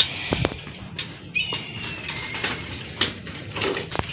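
Bicycle being ridden over rough ground: irregular rattles, clicks and knocks, with a short high whistle-like note about a second and a half in.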